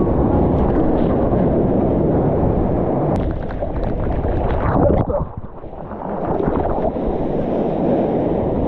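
Wind buffeting the microphone over rushing water, a loud rough noise with a brief quieter dip about five seconds in.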